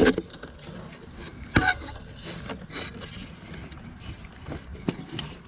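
Hands working in the engine bay: a sharp click about a second and a half in, with lighter clicks and rubbing around it, as the ignition coil's plastic electrical connector is unlatched and pulled off.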